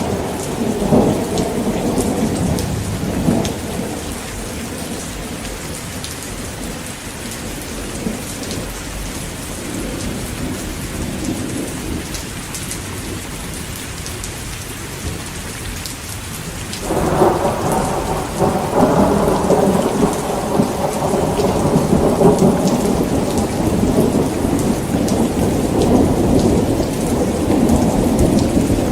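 Heavy rain falling steadily with thunder. A rumble dies away over the first few seconds. A little past the middle, a new thunderclap breaks in suddenly and rolls on, rumbling.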